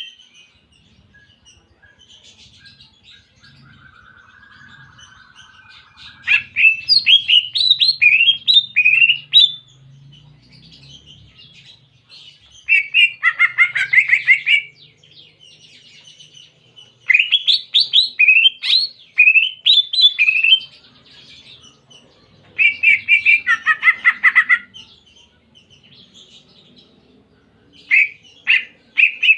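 Cucak ijo (leafbird) song filled with canary phrases: bursts of quick, high whistled notes and two dense rattling trills, separated by pauses of a few seconds.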